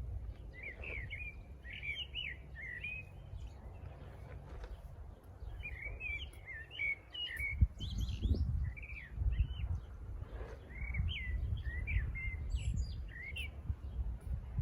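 A songbird singing in three runs of quick, rising and falling chirps, with a low rumble underneath.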